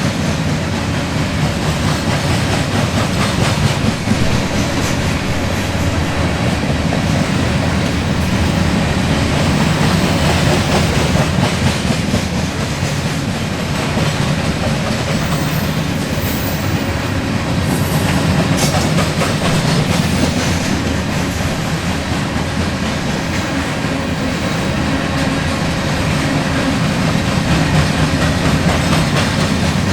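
Cars of a freight grain train rolling past at speed: a steady, loud rumble of steel wheels on the rails.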